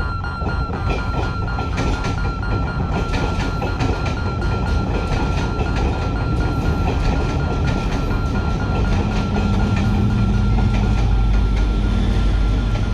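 Level crossing warning alarm sounding a steady, rapidly pulsing high tone, while a train passes with a low rumble that grows louder in the second half.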